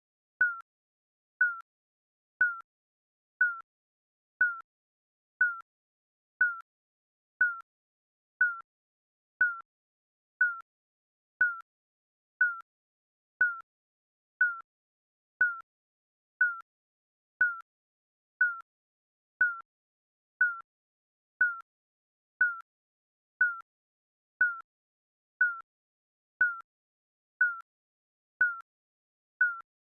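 Digital countdown timer beep sounding once a second: a short, high electronic blip that dips slightly in pitch, repeated evenly.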